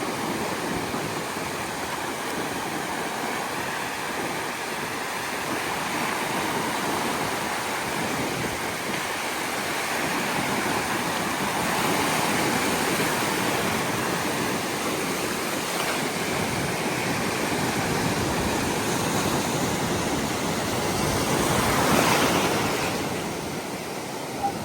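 Ocean surf: waves breaking and washing up the shore in a continuous rush that swells and eases, with a louder wave breaking near the end.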